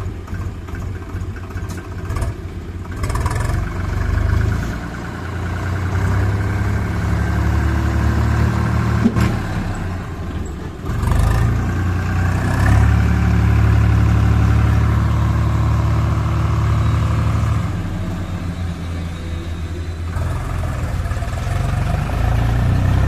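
Tractor engine running, its note rising and falling with the throttle. It is loudest and steadiest a little past the middle, then eases off for a couple of seconds before picking up again near the end.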